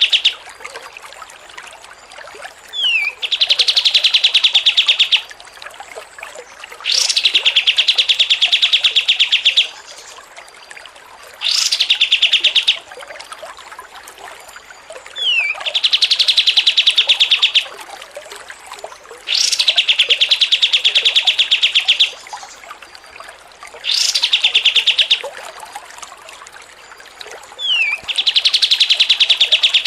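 A songbird repeating the same phrase about every four seconds: a short, sharp falling whistle or a quick rising note, then a rapid, even trill lasting one to two and a half seconds.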